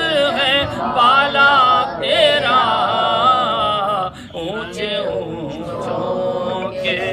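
A man singing a devotional Urdu manqabat in long, wavering held notes, with a short break about four seconds in.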